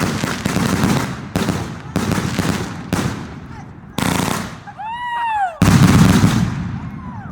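Consumer fireworks going off in rapid, overlapping bangs and crackle. They ease briefly about four seconds in, then a loud burst comes about 5.6 seconds in. A short high-pitched call that rises and falls sounds about five seconds in.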